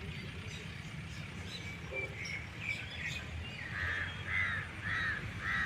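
A bird calling outdoors: a few short chirps, then four louder calls about half a second apart near the end, over a steady low rumble.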